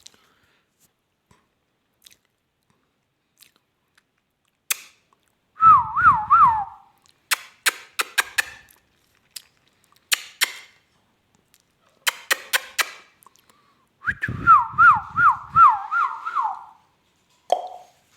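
Parrot whistling a quick wavering note that rises and falls several times, twice, with runs of sharp clicks in between.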